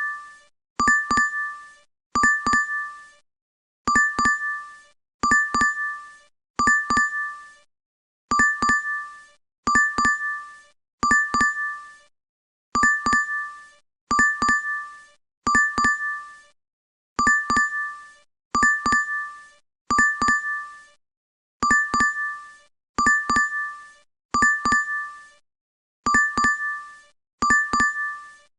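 DoorDash app notification sound playing on a loop: a bright two-tone ding struck in quick clusters, repeating about every second and a half.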